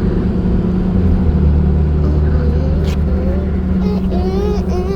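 Car engine and road noise from inside a moving car: a steady low rumble that shifts lower about a second in.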